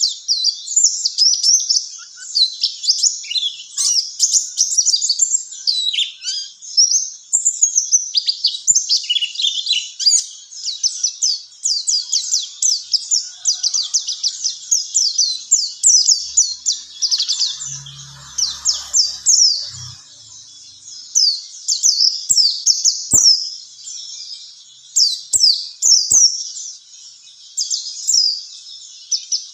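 Pleci (white-eye) singing: a continuous, fast run of high twittering chirps and trills, used as a masteran song recording for training caged songbirds.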